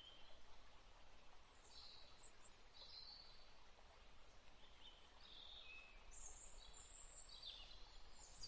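Faint birdsong: short, high chirps and brief trills from small birds, scattered one or two a second over a soft hiss.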